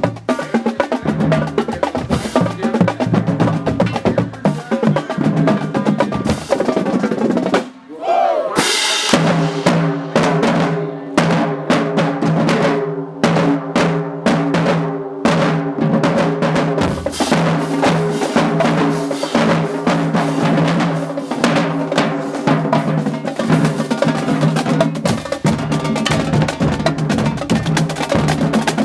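Marching band drumline playing a cadence on snare and bass drums. About eight seconds in it drops out briefly, then the full band comes in with held chords over the drums.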